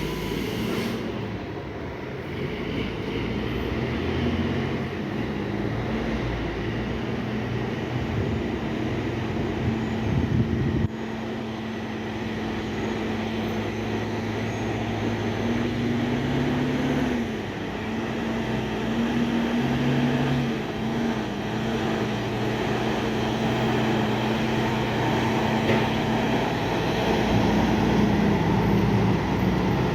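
Heavy truck's diesel engine running at low speed, a steady low drone whose pitch rises and falls slightly.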